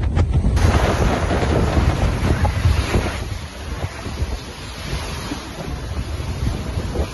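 Strong cyclone wind gusting and buffeting the microphone, a loud rushing noise with a deep rumble. The sound changes abruptly about half a second in, as at a cut between clips.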